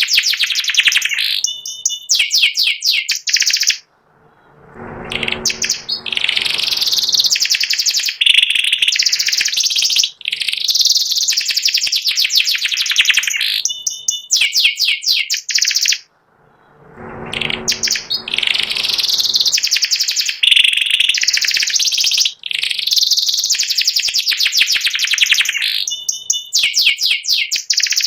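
White pied ('panda') domestic canary singing long, rapid rolling trills and chirps in extended phrases with short pauses. The same song sequence comes around twice.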